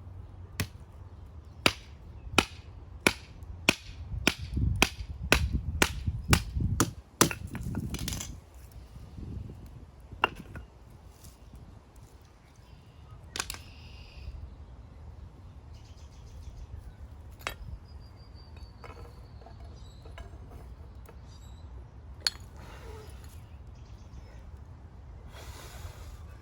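A steady run of sharp chopping strikes, about one and a half a second for the first eight seconds, then only a few scattered single knocks.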